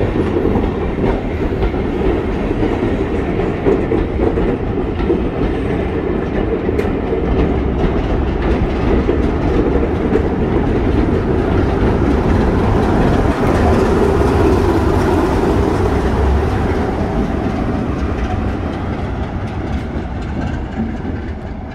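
A train running along the platform, its wheels clattering over the rail joints with a steady rumble that builds, peaks in the middle and fades near the end.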